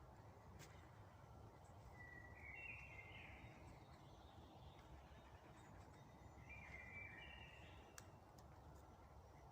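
Faint forest ambience: a songbird sings two short phrases that step upward in pitch, about two seconds in and again near seven seconds, over a steady low background rumble with a few faint ticks.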